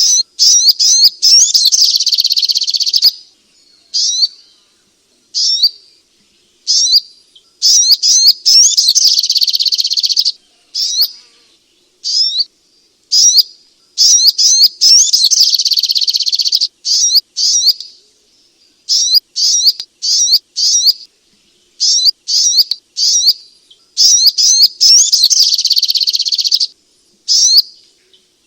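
Sogok ontong (little spiderhunter) song: high-pitched, rapid chirping trills in long bursts of two to three seconds, separated by short single chirps, repeated over and over as a training recording for a cage bird.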